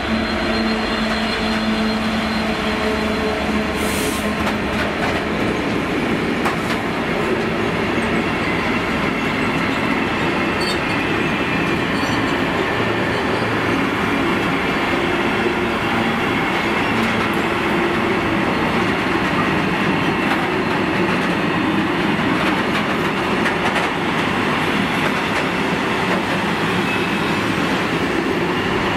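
Class 66 diesel locomotive passing at the head of a freight train, its engine tone fading in the first few seconds. Then a long rake of covered freight wagons rolls past with steady wheel-on-rail rumble and clatter.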